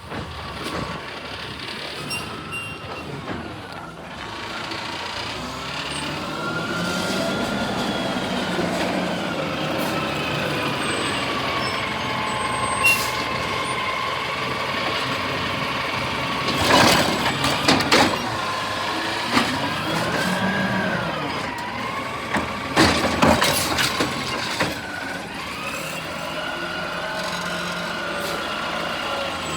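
Garbage truck's engine running and revving up and down repeatedly, its pitch rising and falling. A few short, loud bursts of noise come partway through.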